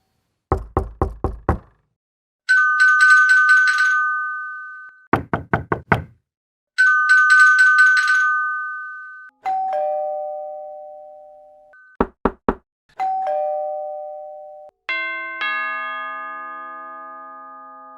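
Knocking on a door alternating with doorbells. A quick run of about five knocks, a trilling electric bell, the knocks and the trill again, then a two-note ding-dong chime, three knocks, the ding-dong again, and a longer chime of several notes near the end.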